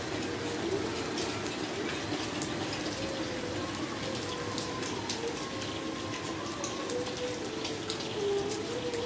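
Heavy rain falling onto a wet tiled floor and into standing water: a steady wash of water noise with many small drops splashing.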